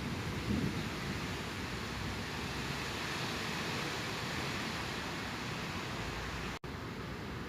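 Steady hiss of heavy rain during a thunderstorm, with the tail of a thunder rumble dying away at the start. It drops out for an instant near the end.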